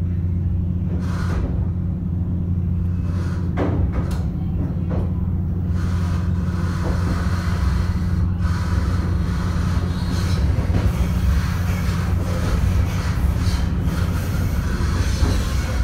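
Steady low hum and rumble inside a commuter train coach, with a few short clicks in the first seconds. From about six seconds in, wheel and track noise builds as the train rolls over the rails.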